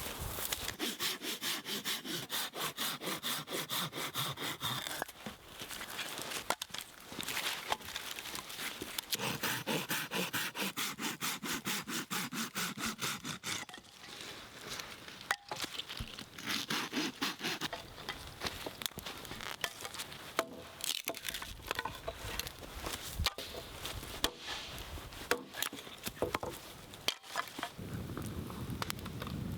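Hand saw cutting wood in quick, rhythmic strokes, in two runs of several seconds each, with scattered scrapes and knocks between.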